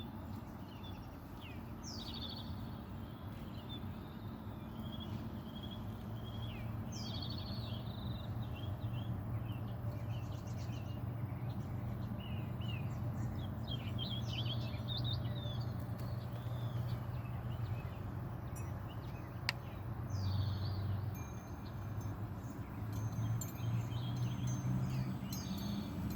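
Birds chirping and calling in short, quick sweeping notes, with several calls overlapping, over a steady low rumble.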